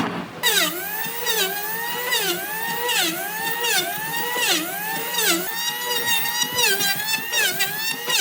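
A high-speed power tool whining as it is worked into wood. Its pitch sags under load and climbs back over and over, roughly every three-quarters of a second.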